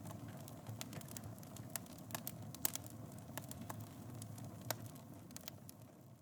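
Wood fire burning in a fireplace: a steady low rumble of flames with irregular sharp crackles and pops, fading out near the end.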